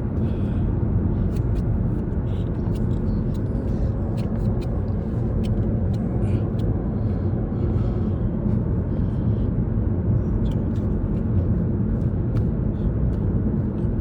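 Steady low road and engine rumble of a car driving at highway speed, heard inside the cabin, with scattered faint clicks.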